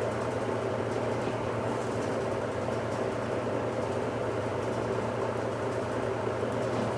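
1969 Westinghouse LAJ 535A3 washing machine running mid-cycle with a steady mechanical hum.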